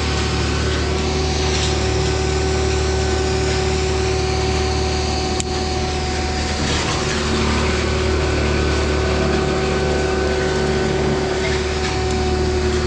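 An engine running steadily at constant speed, with a steady hum and a brief click about halfway through.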